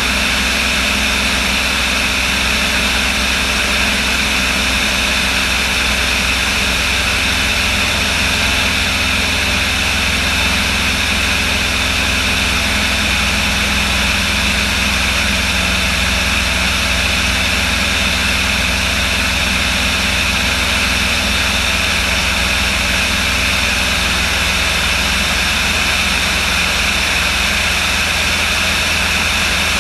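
Aircraft engine running steadily, a constant drone with a steady pitch and no change in level.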